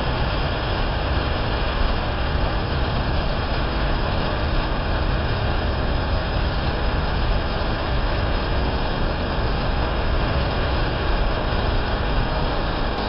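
A fast-flowing mountain river rushing, a steady, unbroken noise of water.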